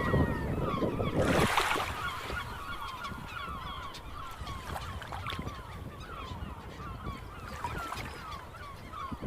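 A flock of gulls calling, many short overlapping cries throughout. A brief loud rush of noise comes about a second and a half in.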